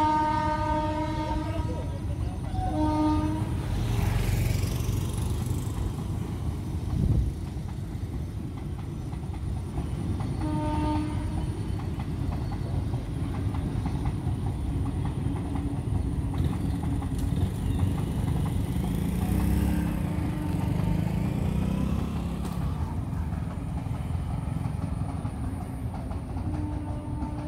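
Passenger train running in the distance with a steady low rumble, sounding its horn: a long blast at the start, a short one about three seconds in, another about eleven seconds in, and fainter ones later.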